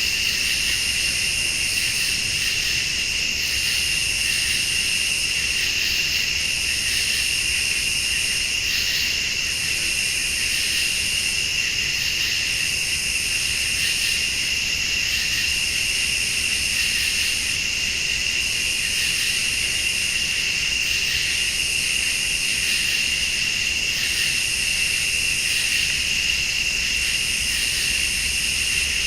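Night chorus of crickets and late-summer insects: a steady high trill, with a still higher insect call that pulses on and off about every two seconds.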